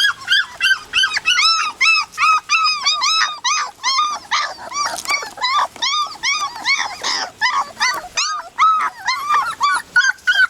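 A litter of 3½-week-old puppies whining and crying without pause. Short, high, arching cries come several a second and overlap from more than one pup.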